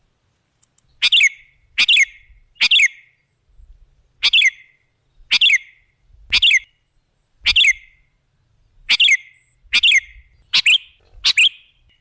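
Sooty-headed bulbul (kutilang) giving short, loud call phrases over and over, about one a second, each a quick run of falling notes.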